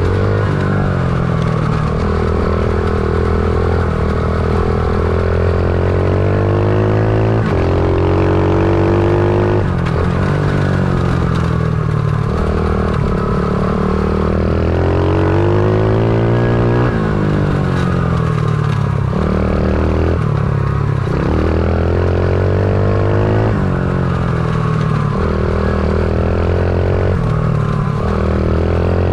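Stomp pit bike's small four-stroke single-cylinder engine being ridden hard, its pitch climbing under throttle for a few seconds and then dropping back, again and again.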